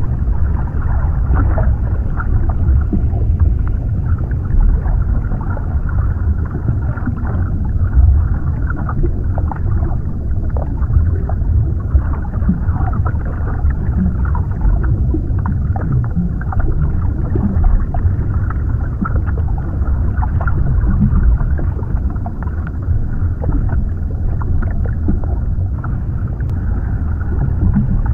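Underwater ambience: a steady, muffled low rumble of water, with small crackles and clicks scattered through it.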